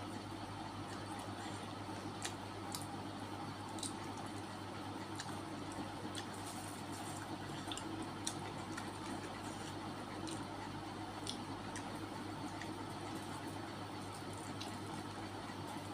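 Wet chewing and mouth sounds of someone eating chicken feet and vegetables: scattered small clicks and smacks over a steady low background hum.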